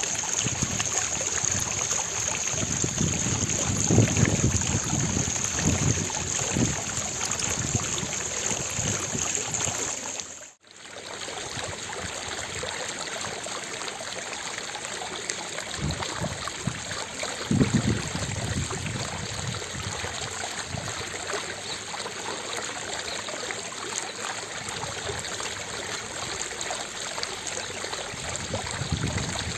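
Fountain water falling and splashing into its basin in a steady rush. About ten seconds in it cuts out for a moment, then resumes with a slightly different tone, with a few low swells.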